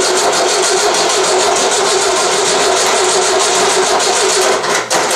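Air-cooled VW 1600 dual-port flat-four turned over by its starter motor, cranking steadily with a starter whine and not catching, briefly interrupted about five seconds in. The engine is not yet getting fuel: cranking is meant to fill the dry carburettor float bowl.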